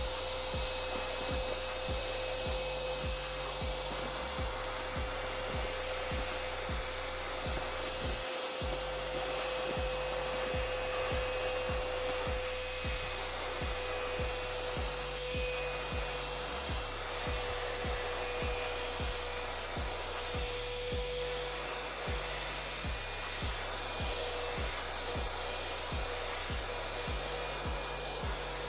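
XREXS cordless handheld vacuum cleaner running steadily with a constant whine and a gritty rushing noise as it sucks up chips. Instrumental music with a steady bass beat plays underneath.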